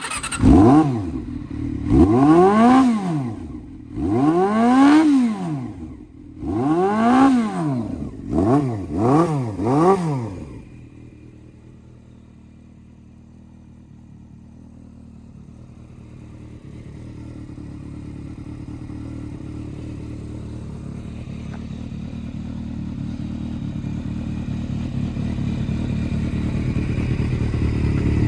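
Honda CB400 Super Four NC31's inline-four engine through an aftermarket exhaust, blipped about six times with the throttle, each rev rising and falling back, the last few quicker. It then settles into a steady idle that slowly grows louder.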